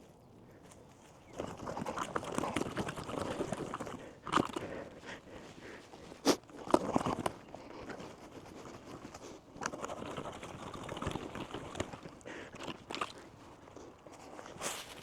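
Digging into dry leaf litter and loose composted soil: crunching and scraping strokes, with a few sharp knocks a few seconds in, then lighter scrapes.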